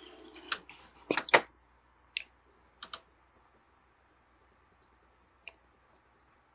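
Plastic Lego pieces clicking and clattering as they are handled: a quick flurry of clicks at first, then single clicks every second or so.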